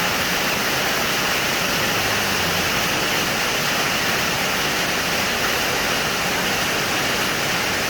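Heavy rain falling steadily: a dense, unbroken hiss.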